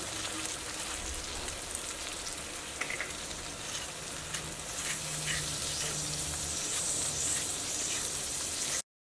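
Onions, ginger, garlic and masala paste frying in oil in a steel kadai over a low flame: a steady, gentle sizzle that cuts off suddenly near the end.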